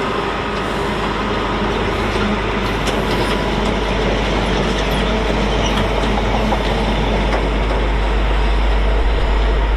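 Freight train hauled by a Freightliner Class 66 diesel-electric locomotive passing at speed, a steady rumble from the engine and wagons with a few faint clicks of wheels over the rail joints.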